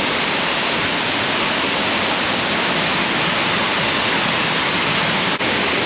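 Casaroro Falls pouring steadily, a dense, even rush of falling water with a momentary dip near the end.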